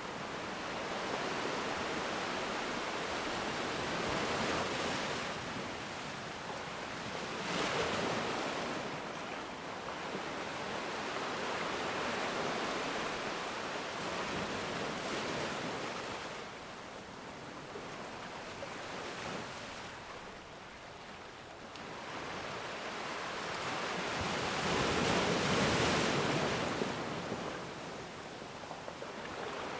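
Ocean waves breaking and washing on a shore, a steady hiss of surf that swells and ebbs, with a strongest surge about five seconds from the end.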